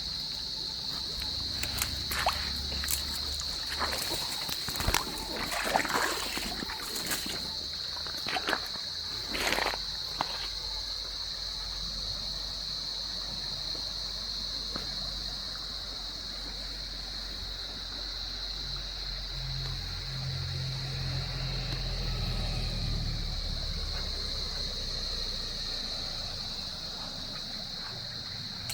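Stream water trickling and splashing over rocks, under a steady high-pitched drone of insects. Sharp clicks and splashes come in the first ten seconds or so, and a low hum swells and fades from about twenty seconds in.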